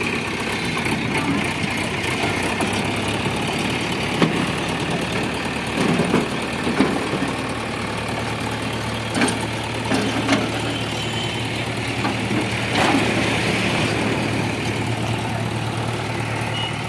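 Diesel engine idling steadily, with several sharp metallic knocks and clanks scattered through.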